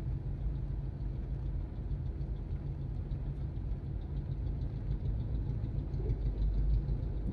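Car engine idling, heard from inside the cabin as a steady low rumble while the car stands still in traffic.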